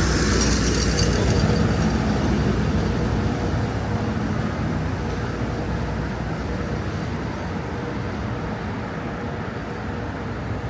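Road traffic: a passing vehicle's tyre and engine noise fades away over the first few seconds, leaving a steady low traffic rumble.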